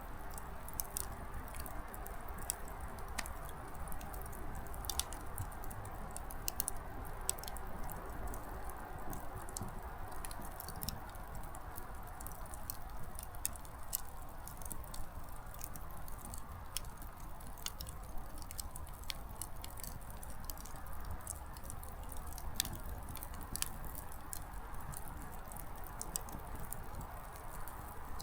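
Small wood campfire crackling: firewood snapping in many sharp, irregular pops over a steady rush of burning.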